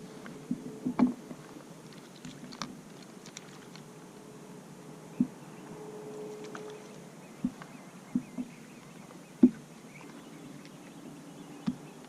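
Scattered knocks and bumps on a fishing kayak as gear and the paddle are moved about, about nine separate hits with the loudest about nine seconds in. A faint steady hum runs in the background around the middle.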